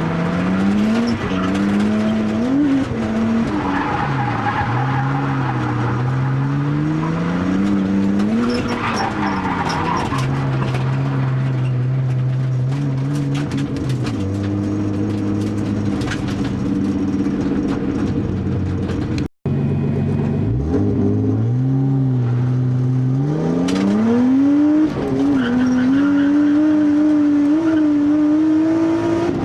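Turbocharged RB20DET straight-six of an R32 Skyline revving up and down hard through drifts, with tyre squeal at times. The engine is run on the stock turbine with the boost raised and its compression down to single figures. The sound drops out for an instant about two-thirds of the way through, then the revs climb again.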